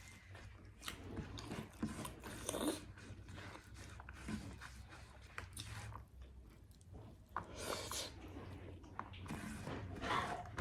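Close-up eating sounds: a person chewing and biting food, with irregular soft mouth clicks and smacks.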